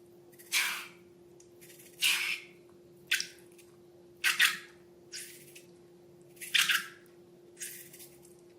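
Slime being squeezed and pressed by hand, giving seven wet squelches at roughly one-second intervals, over a faint steady hum.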